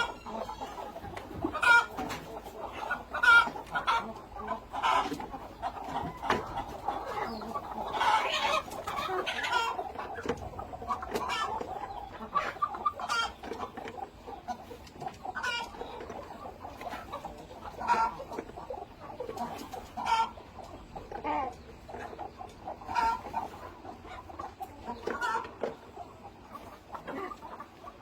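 A flock of chickens clucking, with many short overlapping calls throughout and a busier stretch of calling about eight seconds in.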